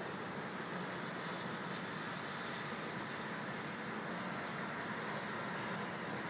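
Steady city street traffic noise heard through an open window: an even hum with no distinct events.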